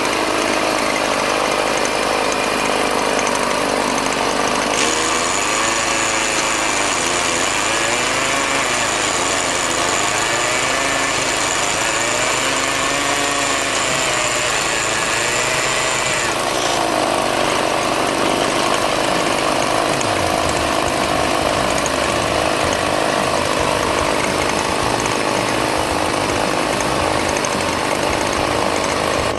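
Motor-driven machinery running steadily and loudly, with a high whine from about five seconds in until about sixteen seconds in.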